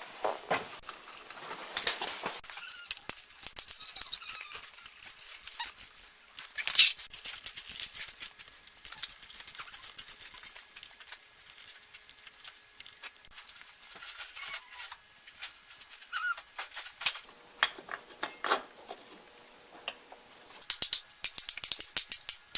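Metal clicks and clinks of hand tools and engine parts while reassembling the top end of a Suzuki RM125 two-stroke, with a couple of quick runs of evenly spaced clicks.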